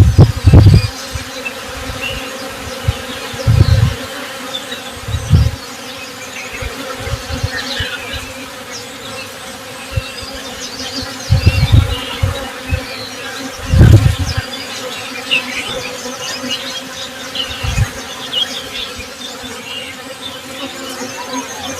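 Honey bees buzzing steadily as a swarm, with faint bird chirps scattered through it. Every few seconds a brief, louder, low swell rises out of the buzz, about half a dozen times.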